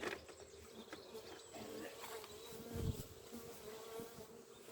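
Honeybees buzzing around the hives: a steady, wavering drone from a bee flying close to the microphone. A soft low thump about three seconds in.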